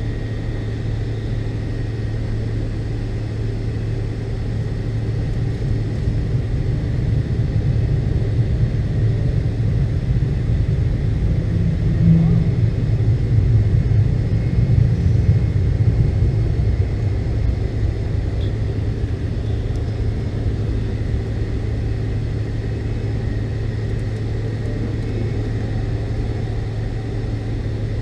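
Steady low rumble of a McDonnell Douglas MD-82's rear-mounted Pratt & Whitney JT8D turbofans and airflow heard inside the passenger cabin, with a faint steady whine. It swells a little about a third of the way through, then settles back.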